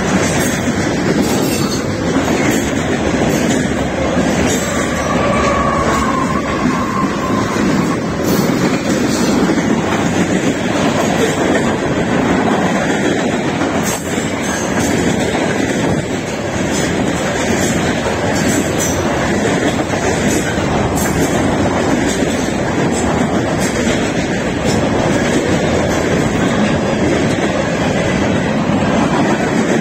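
Cars of a CSX mixed freight train rolling past close by: a steady rumble of steel wheels on rail with scattered clicks over the rail joints. A brief wheel squeal rings out about five seconds in.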